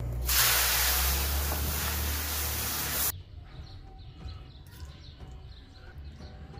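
Sliced onions and bell peppers hitting hot oil in a wok, sizzling loudly for about three seconds and then cutting off suddenly. After that, faint clinks of a fork and knife on a plate.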